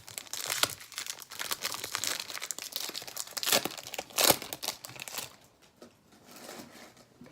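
Foil wrapper of a hockey card pack crinkling as it is torn open and handled, a dense crackle that stops about five seconds in.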